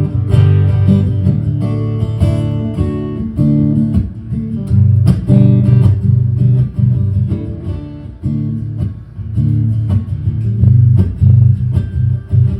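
Acoustic guitar strummed in an instrumental passage of a folk song, with full low chords and no singing.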